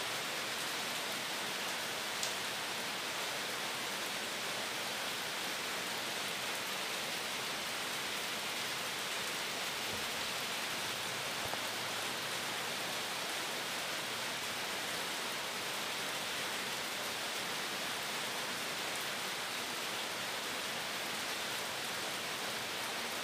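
Steady, even hiss with a single faint click about two seconds in.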